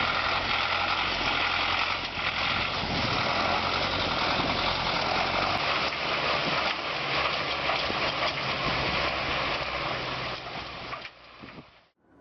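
Heavy off-road truck's engine running under load with a steady rushing noise over it; it fades and cuts off near the end.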